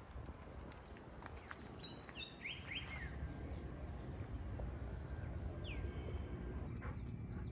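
Outdoor rural ambience of small birds calling: two stretches of high, rapid trilling and several short falling chirps, over a low background rumble.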